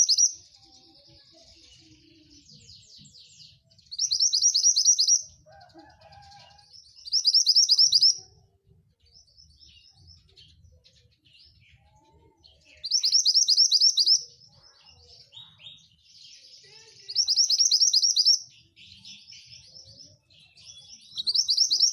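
Javan bush lark (branjangan) singing: loud, rapid, high trills of about a second each, repeated every few seconds, with softer twittering and chattering between them.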